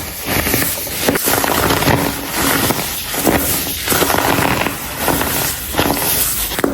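Dyed, compressed baking soda being crumbled by hand, crunching and crackling. The crunching comes in repeated squeezes, about one a second.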